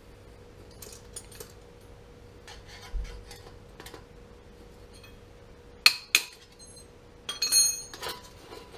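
Small metal parts being handled, clinking and knocking against each other: scattered light clicks, two sharp knocks about six seconds in, then a quick run of ringing metallic clinks.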